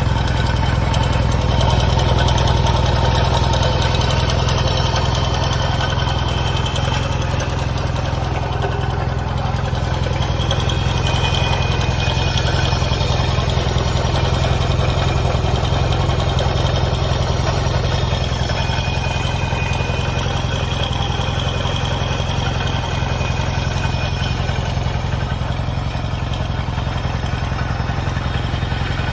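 Yamaha XS650 air-cooled parallel-twin engine running steadily at idle, making a noise its owner calls bad.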